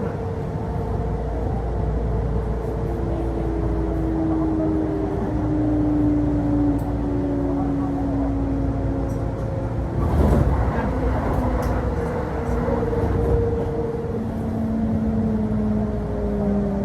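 Kintetsu Osaka Line local electric train running, heard from inside the car: a steady low rumble with the whine of the traction motors in several slowly falling tones. A short burst of clattering noise comes about ten seconds in.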